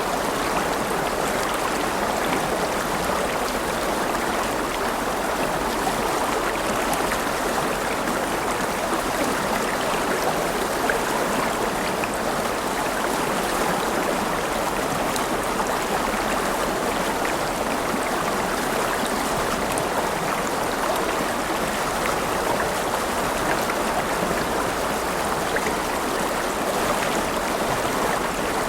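River water flowing and splashing over rocks in a steady rush, with small splashes flickering through it.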